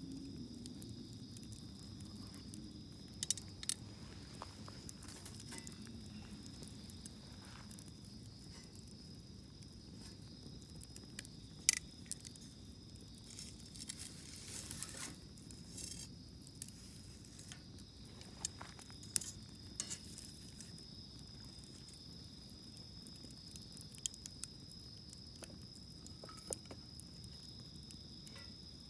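Wood campfire burning with a low steady crackle and a few sharp pops. A steady high insect chirring runs underneath.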